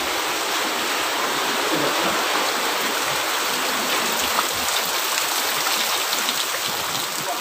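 Water rushing steadily, an even hiss like heavy rain or storm runoff.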